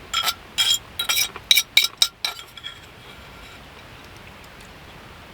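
Cutlery and dishes clinking: a quick run of about nine sharp clinks in the first two and a half seconds, each ringing briefly at a few fixed pitches.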